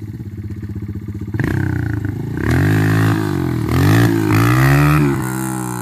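Dirt bike engine running with a steady pulse, then revving harder from about a second and a half in, its pitch rising and falling several times before easing off near the end.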